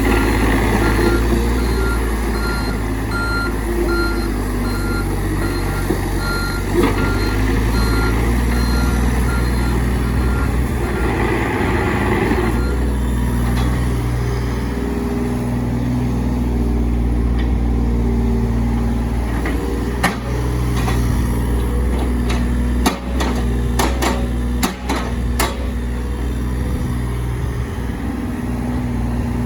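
John Deere 35G compact excavator's diesel engine running steadily, with its travel alarm beeping in an even rhythm that stops about thirteen seconds in. Several sharp metallic knocks follow later on as the machine works.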